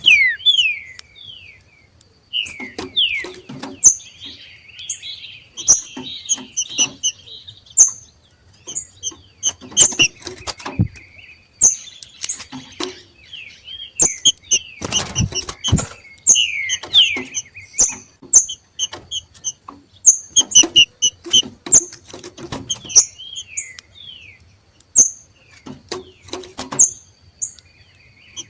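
Two green-winged saltators (trinca-ferro) giving their 'macheado', the breeding-season call: a busy run of short, sharp chirps and quick down-slurred notes, broken by sharp knocks and a wing flutter about halfway through.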